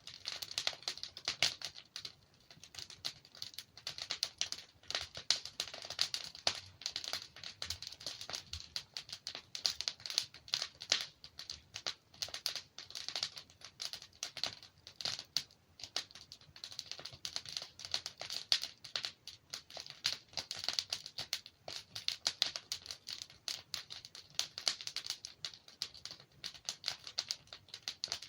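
Wood fire burning in a fireplace, with dense, irregular crackling and small pops from the logs.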